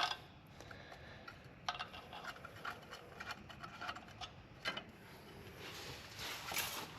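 Scattered light metallic clicks and taps from hand tools and bolts as the bolts are fitted into the back of a truck's rear brake wheel cylinder, with a short scraping rustle near the end.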